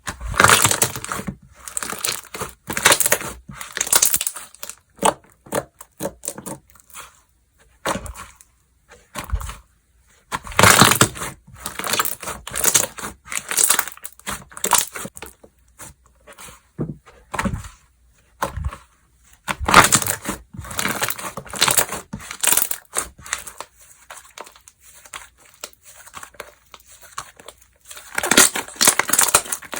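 Hands pressing, stretching and folding slime, giving irregular bursts of small pops and clicks with short pauses between them.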